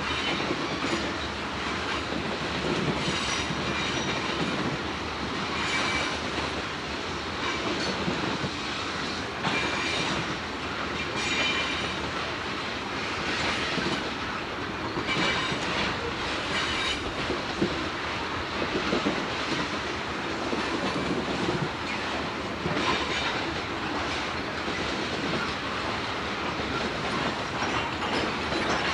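Freight train cars rolling past, wheels clacking steadily over the rail joints, with brief high-pitched squeals that recur every second or two.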